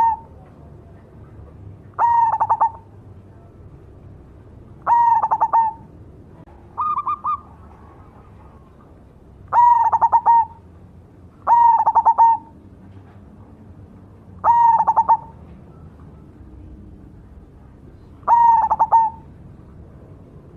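Zebra dove (perkutut) cooing: seven short calls about every two to three seconds. Each is a quick stuttered run of notes ending in a held coo, and the one near the middle is shorter and higher.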